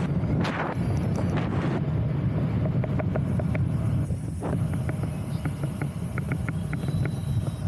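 Wind buffeting the microphone as a steady low rumble, with a series of light, quick ticks in the second half.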